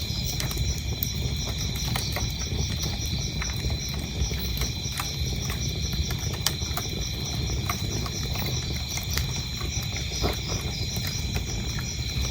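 Wood fire crackling in a fireplace: a low steady rumble of the flames with scattered sharp pops and crackles, over a steady high chirping of crickets.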